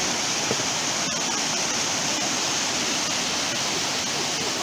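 Waterfall pouring, a steady full rush of falling water.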